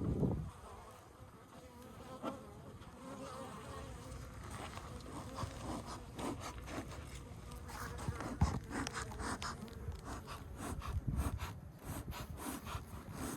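Honeybee colony buzzing around an opened wooden birdhouse nest. Scattered knocks and scrapes of handling are heard, more frequent in the second half.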